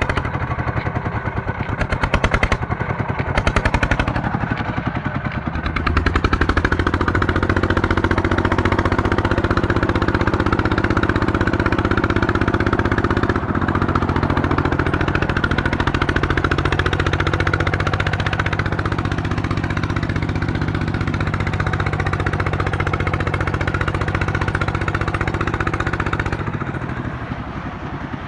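Small diesel engine on a tube well pump running with a fast, even beat. It settles into a steady run about six seconds in, and the level drops near the end.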